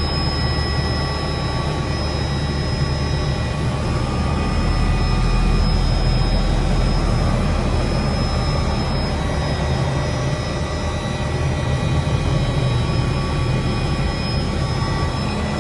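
Helicopter running steadily: a dense low engine-and-rotor noise with a thin high whine from the turbine over it.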